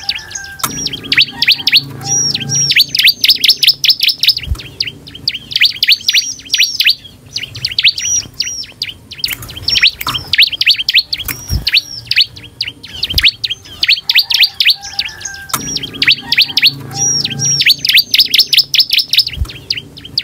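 Bar-winged prinia (ciblek) singing vigorously: fast bouts of sharp, high chirping notes that repeat every few seconds. A few short knocks sound between the bouts.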